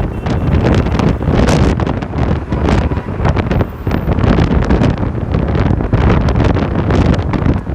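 Loud wind buffeting the microphone on a moving bike, a continuous rumble with irregular crackling gusts.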